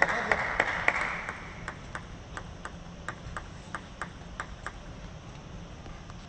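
Arena applause dying away over the first second, then a table tennis ball bounced about a dozen times in an even rhythm, roughly three light ticks a second, stopping just under five seconds in.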